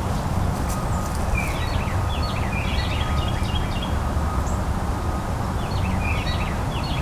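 Small birds chirping and twittering in quick clusters, which die away in the middle and pick up again near the end, over a steady low rumble.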